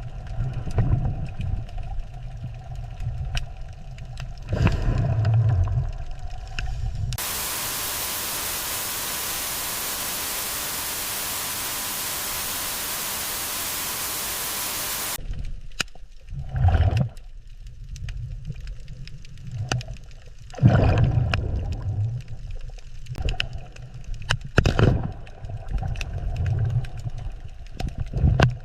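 Underwater ambience: low, uneven rumbling surges with scattered clicks. About seven seconds in it gives way to eight seconds of steady static-like hiss, which cuts off abruptly.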